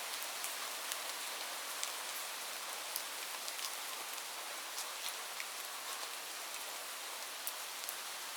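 Light rain falling steadily, a soft even hiss with scattered sharper taps of individual drops landing close by.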